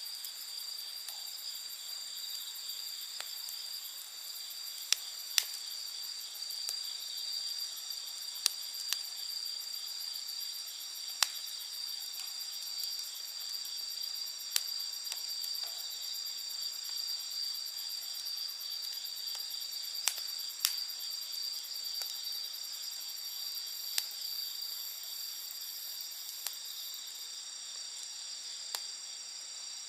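Wood campfire crackling, with a dozen or so sharp, irregular pops, over a steady high chirring of night insects.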